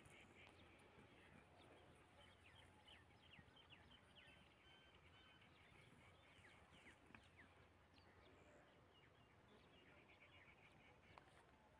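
Faint birds chirping, with short trills and quick repeated chirps throughout, over an otherwise near-silent open-field background.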